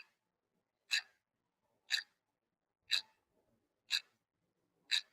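Clock-style tick sound effect counting off the thinking time before the quiz answer, a sharp tick once a second, six times.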